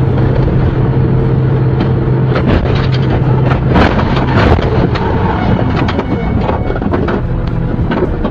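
Dashcam recording of car traffic: a steady engine and road rumble, then a cluster of sharp crunching impacts about halfway through, typical of vehicles colliding.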